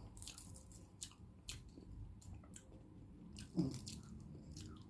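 Close-miked chewing of balut (boiled fertilized duck egg), with wet mouth clicks and smacks scattered throughout and a brief hum about three and a half seconds in.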